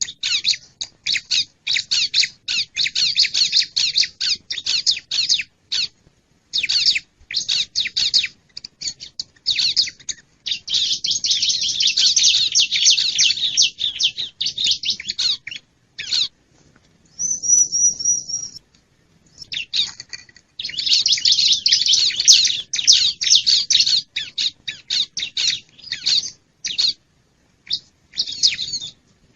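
Wild bar-winged prinia (ciblek) song played as a bird-trapping lure call. It comes as fast runs of sharp, high chattering notes in bursts with short gaps, with one thin, even high trill about two-thirds of the way through.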